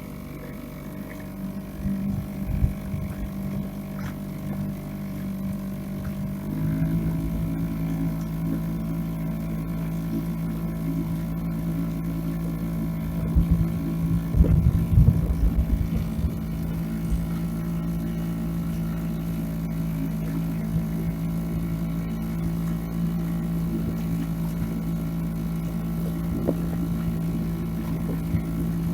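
Boat outboard motor running steadily underway; it speeds up about six and a half seconds in and then holds a higher, steady drone. Wind buffets the microphone a couple of times.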